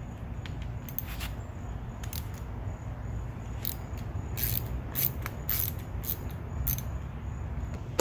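Small metal carburetor parts of a push mower being handled and worked: a string of short, sharp clicks and scrapes, a few a second, over a low steady hum.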